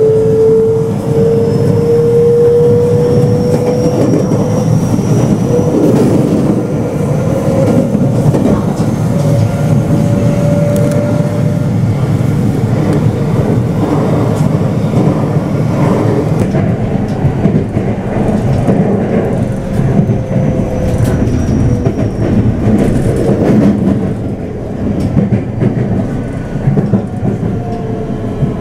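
Local electric train running, heard from inside the carriage: a steady rumble with a whine that rises slowly in pitch over the first dozen seconds.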